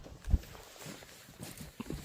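Footsteps walking at an uneven pace, with one louder thud about a third of a second in.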